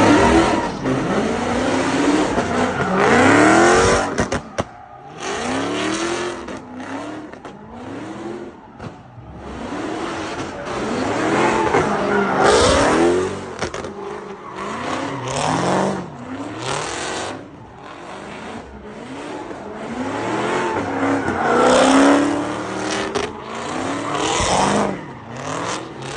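Car engines revving hard again and again, their pitch sweeping up and falling away, with tyre squeal from cars being spun or slid.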